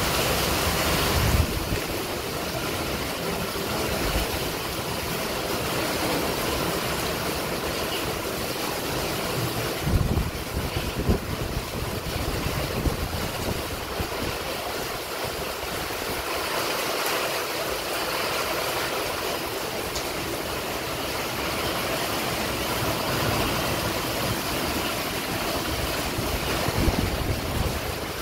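Heavy rain pouring steadily in strong, gusting wind, with a few low buffets of wind on the microphone: about a second in, around ten seconds in and near the end.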